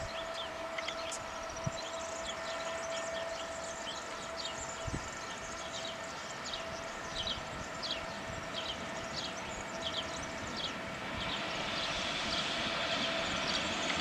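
Trenitalia regional train, led by a UIC-X driving trailer, approaching along the track. Its steady hum is joined by a rising rumble and rush of wheels on rail that grows louder over the last few seconds as it nears.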